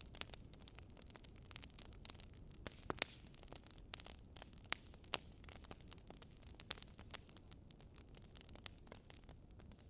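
Burning firewood crackling: irregular sharp pops and snaps, a few louder than the rest, over a faint steady noise.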